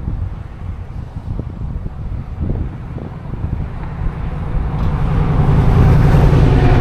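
Wind buffeting the microphone, then a road vehicle approaching from about four seconds in, its tyre noise and whine growing steadily louder.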